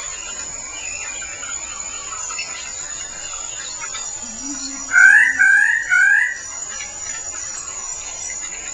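Male king bird-of-paradise calling: three loud, wavering notes in quick succession about five seconds in, over a steady high-pitched insect drone.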